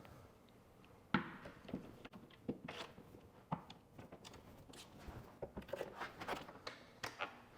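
Scattered faint clicks and knocks of a 13 mm socket and steel bolts as the spare tire carrier's bolts are taken out of the tailgate, with one sharper knock about a second in.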